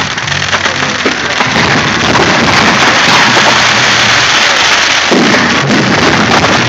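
Dense crackling of fireworks bursting at a display, with the display's music playing underneath; the music's low notes fade out early and come back about five seconds in.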